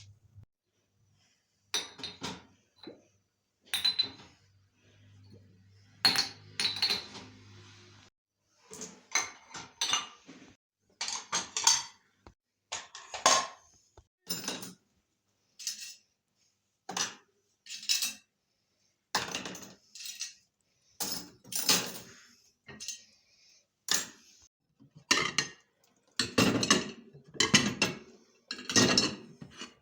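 Dishes and cutlery clinking and clattering as they are handled and set down, one sharp clink or knock about every second.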